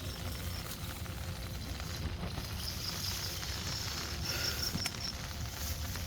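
Steady patter of rain over a low rumble, with a rapid high-pitched chirping call pulsing through it in runs.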